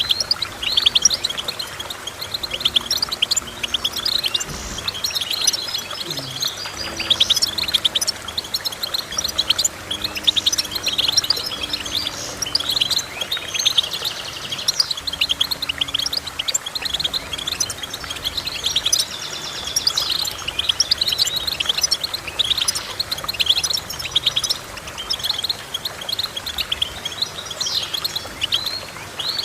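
A songbird singing a continuous, fast twittering song of short chirps and trills.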